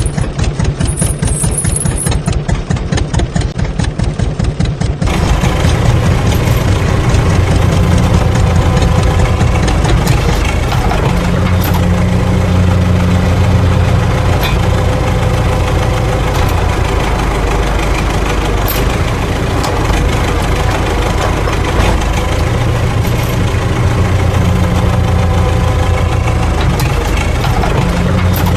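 Engine sound chugging in rapid, even pulses, then about five seconds in switching abruptly to a steady, deeper running rumble with a hum.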